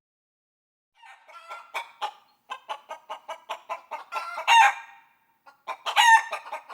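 Chickens clucking in a quick run of short calls starting about a second in, with two louder, drawn-out calls about four and a half and six seconds in.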